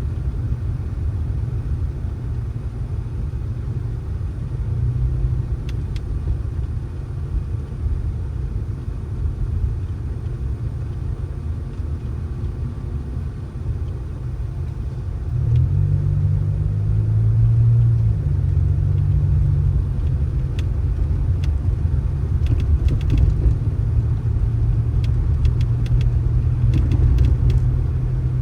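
Motor vehicle running with a steady low rumble of engine and road noise. About halfway through, the engine note rises and gets louder.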